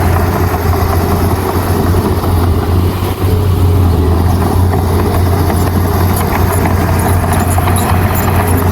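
Heavy-equipment diesel engine running steadily with a strong low hum.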